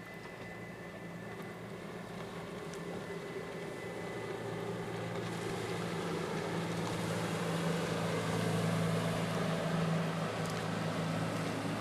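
Outboard motor of a Yamaha UF-28 fishing boat running at steady revs, a low engine hum growing steadily louder as the boat comes closer.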